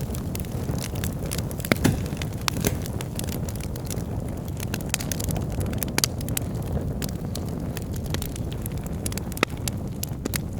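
Wood fire burning logs in a fireplace: a steady low rumble of flame with frequent sharp crackles and pops from the burning wood, a louder pop near the start and another near the end.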